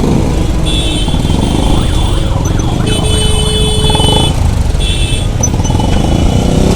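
Motorcycle riding in heavy city traffic, a steady low rumble of engines and wind on the microphone, with several high-pitched vehicle horn blasts from the surrounding traffic, the longest about a second and a half.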